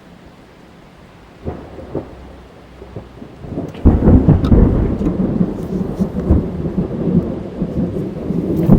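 Rain heard from inside a car, then about four seconds in a loud thunderclap breaks and keeps rumbling on.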